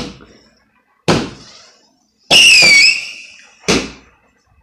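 Cake firework, a multi-shot barrage, firing. Sharp bangs go off at the start, about a second in and near the end, with a loud whistling shot whose pitch falls, about halfway through.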